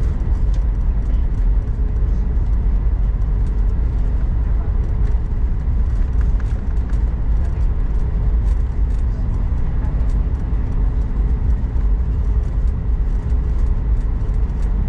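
Airbus A220-100 cabin noise during the taxi after landing: a steady, loud low rumble with a faint, even hum from the engines.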